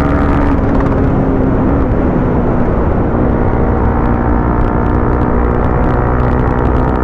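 Bajaj Pulsar NS200's single-cylinder engine running while riding at a steady pace, its engine tone dipping slightly about two seconds in, over a low road-and-wind rumble.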